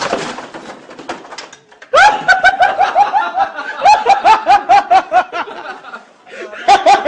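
A loud crash that fades over the first second, then shrill, rapid laughter in quick repeated bursts from about two seconds in, breaking off briefly near the end and starting again.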